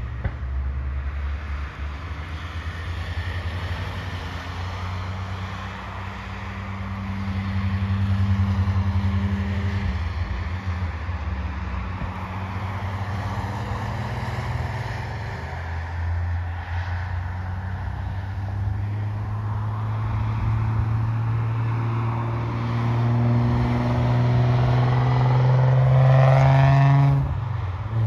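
Nissan 300ZX twin-turbo V6 lapping a race track, its engine note rising and falling through the corners. Near the end it accelerates hard with the pitch climbing steadily, then cuts sharply for a gear change.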